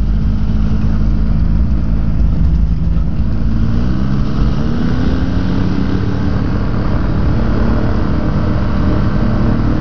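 Rotax engine of an open-cockpit Quad City Challenger ultralight running steadily on the ground, its pitch rising a little about four seconds in, with heavy low rumble from strong wind on the microphone.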